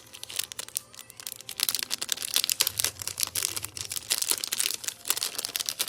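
Plastic packaging crinkling and rustling as it is handled and opened, a dense, irregular run of crackles.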